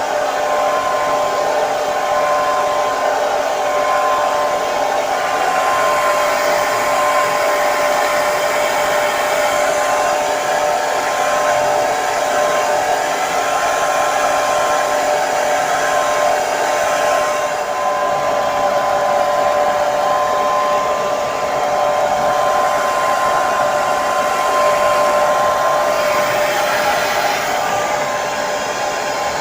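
Hair dryer running continuously: a steady blowing hiss with a constant motor whine.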